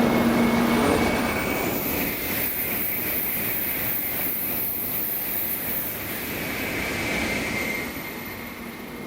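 Tokaido Shinkansen bullet train moving through the station: a steady rushing noise that slowly fades.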